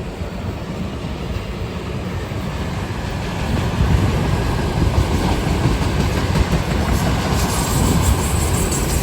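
Freight train rolling past at slow speed, its wheels clicking over the rail joints with a steady rumble that grows louder about three and a half seconds in.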